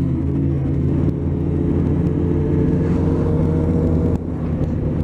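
Motorcycle engine running at a steady cruising speed under road and wind noise, with a brief dip in level about four seconds in.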